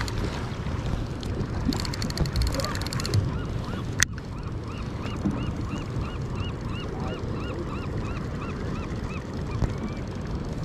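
A bird calling in a fast series of short rising-and-falling notes, about three a second, over the steady low rumble of the boat and wind. A burst of rapid clicking comes just before.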